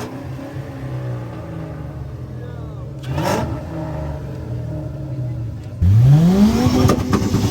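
A car engine idling steadily, then revved hard about six seconds in, its pitch climbing quickly and the sound getting much louder, with sharp cracks near the end.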